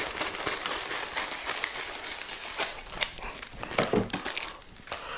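Packaging rustling and crinkling as an RC jet's boxed wing is unwrapped by hand, with many small clicks and taps.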